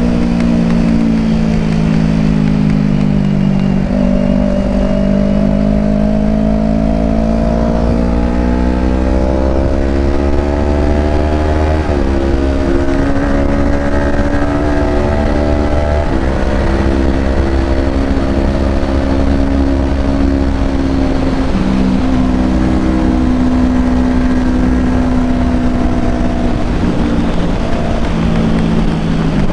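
Kawasaki Ninja 250 motorcycle engine under way: its note climbs steadily as the bike accelerates, then drops suddenly twice, a few seconds apart, at quickshifter upshifts. After the second shift it runs at a near-steady cruising note, with the low rush of riding beneath it.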